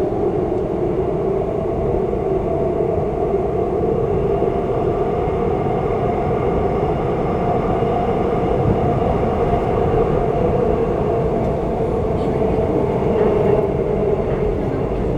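Seoul Metro Line 2 subway train running between stations, heard from inside the carriage: a steady rumble of wheels on rail with an even motor hum.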